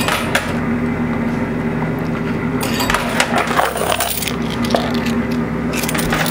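Quarters dropping and clinking onto a coin pusher's playfield, with a run of rapid clinks about three seconds in, over the steady hum of the arcade machine.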